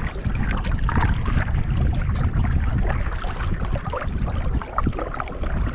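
Water splashing and trickling around a moving canoe, over a steady low rumble.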